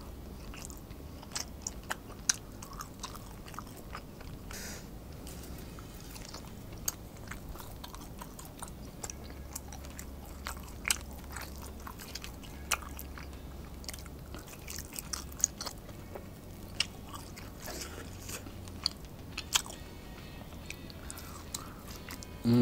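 Close-up eating of grilled wagyu picanha steak: wet chewing with many short mouth clicks and lip smacks, finger licking, and meat pulled apart by hand.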